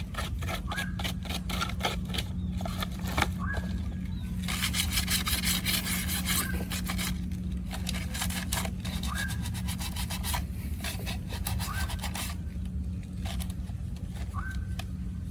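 Rapid hand scraping and rubbing strokes on a hard surface, coming in bursts, with a short squeak every couple of seconds. A steady low hum runs underneath.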